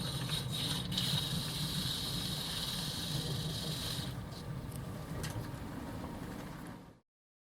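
Steady low rumble inside a passenger train carriage, with a hiss laid over it for the first four seconds. The sound cuts off suddenly about seven seconds in.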